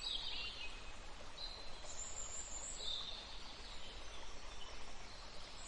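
Wild birds chirping and singing: short high phrases, some sliding downward, come every second or so, over a steady low background hiss.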